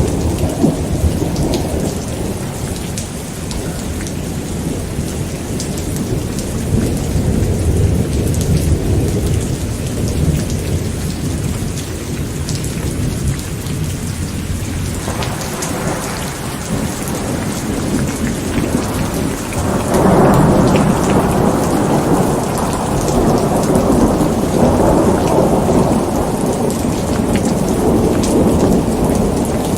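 Steady rain falling with thunder rumbling underneath. A louder roll of thunder swells up about two-thirds of the way through and keeps going.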